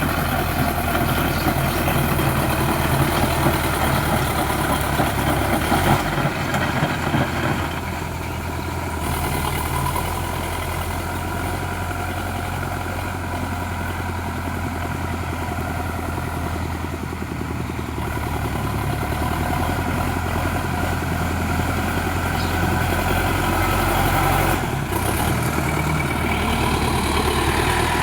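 Sonalika DI 750 tractor's diesel engine running steadily, its loudness easing a little and rising again over the stretch.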